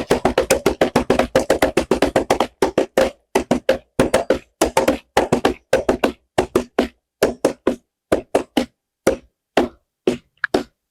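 Foley horse hoofbeats knocked out by hand on props, a fast, even galloping rhythm that breaks after about two and a half seconds into spaced groups of knocks, slowing and thinning out, as a horse easing down from a gallop.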